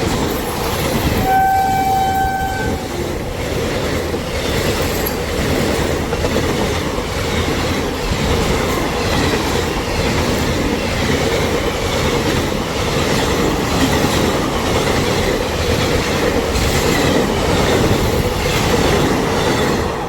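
A train passing close by: one horn blast lasting about a second and a half near the start, then the steady rumble of the train going by.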